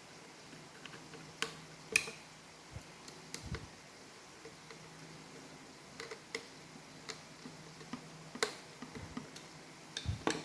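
Irregular small clicks and taps of Roomba robot-vacuum parts and tools being handled and fitted back together during reassembly, the sharpest about two seconds in and again past eight seconds, with a quick run of clicks at the end.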